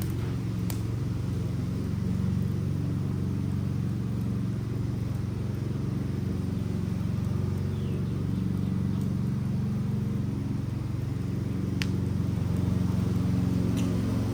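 Wooden Adirondack chair burning in an open fire: a steady low rumble with a few sharp pops, one about a second in and two near the end.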